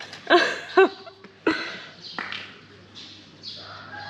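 Two short animal calls, each rising then falling in pitch, in the first second, then a sharp click about a second and a half in.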